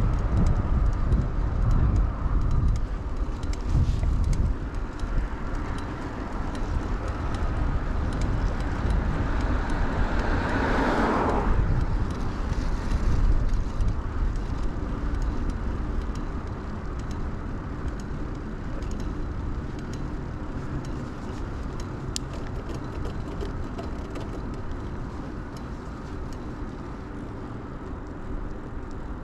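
Wind rumbling over a chest-mounted action camera's microphone during a bicycle ride, with a car passing close by about eleven seconds in. The rumble eases off over the last third.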